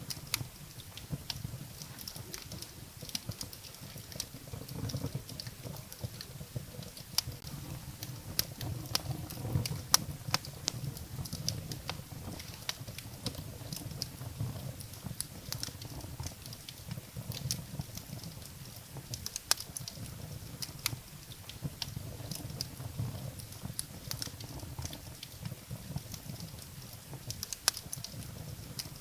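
Wood fire burning in a fireplace: irregular sharp crackles and pops from the burning firewood over a low, steady rumble of flames.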